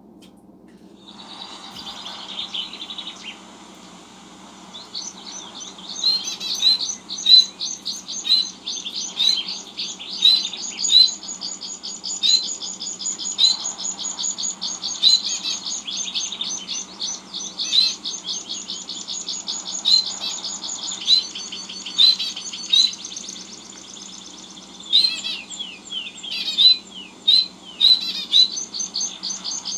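Small birds chirping: a fast, high twittering with sharp, loud chirps about every second, starting about five seconds in.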